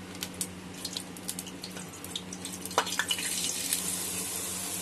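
Fine onion paste sizzling and crackling in hot oil in a nonstick pot while it is stirred with a spatula; the sizzle grows louder about three seconds in.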